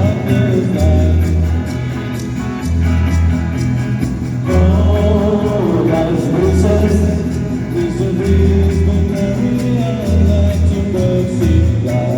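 Rock band playing an oldies-style song live: a singer over guitar and bass with a steady beat.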